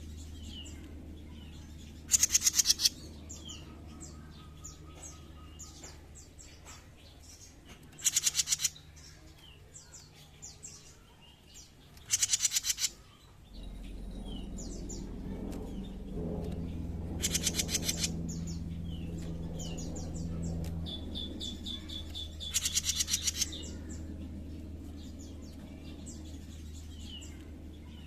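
A jenggot mini songbird giving a loud, fast chattering rattle of under a second, repeated about every four to five seconds, with soft short chirps in between. A steady low hum runs underneath and grows louder for several seconds in the middle.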